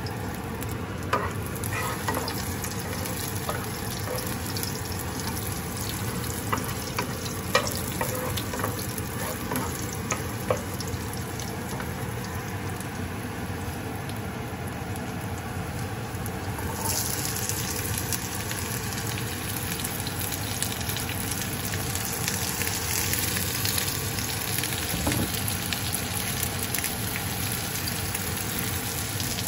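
Chopped garlic sizzling in oil in a nonstick frying pan, stirred with a wooden spoon that clicks against the pan a few times in the first ten seconds. A bit past halfway the sizzle suddenly turns louder and hissier as diced onion goes into the hot oil.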